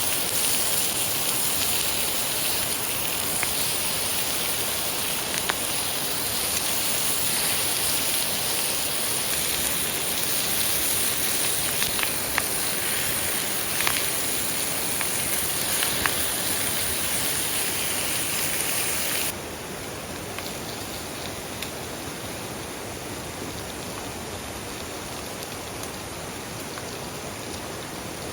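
Mountain stream water rushing steadily, with a steady high insect chirring over it and a few light clicks. About two-thirds of the way in, the sound cuts to a quieter stretch of flowing water with the insects fainter.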